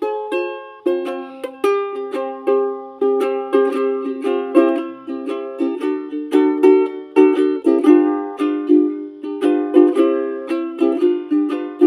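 Instrumental break in a song: a plucked string instrument strummed in steady, rhythmic chords, with no singing.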